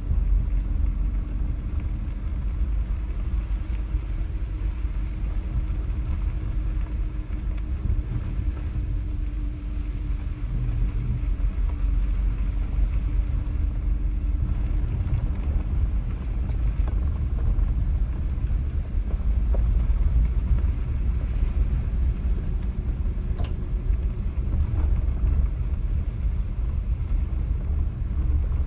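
Car driving: a steady low rumble of engine and road noise, with a faint hum above it. A single sharp click near the end.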